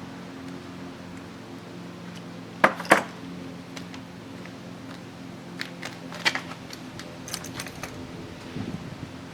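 Small metal parts and tools being handled during e-bike assembly: two sharp metallic clicks close together a little under three seconds in, then a scatter of light clinks and ticks. A steady hum with a low tone runs underneath.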